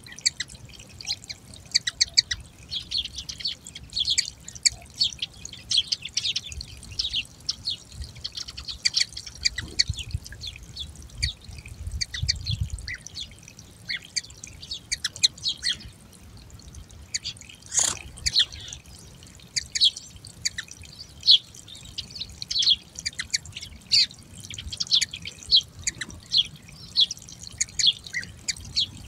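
Small birds chirping busily throughout, short high calls one after another. About 18 seconds in there is one sharp knock, and a low rumble a little before it.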